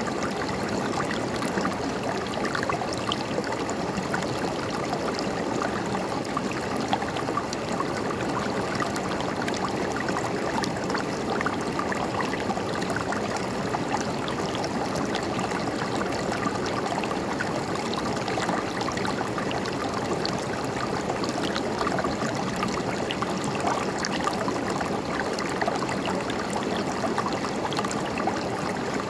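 A river's running water, a steady babbling flow with small splashes and gurgles.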